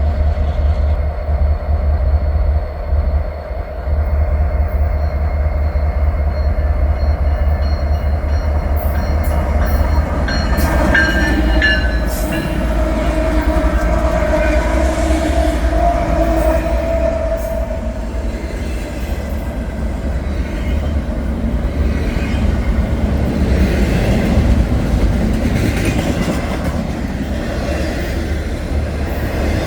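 Freight train passing: a heavy diesel locomotive rumble with wheels clicking on the rails, and some steady tones about a third of the way through.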